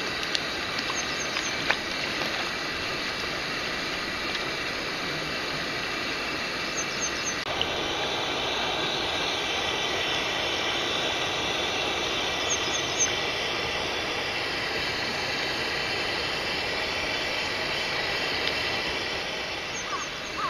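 Steady rush of flowing stream water, an even noise with no let-up. A few faint high chirps come in short runs of three, about a second in, about 7 s in, about 12 s in and near the end.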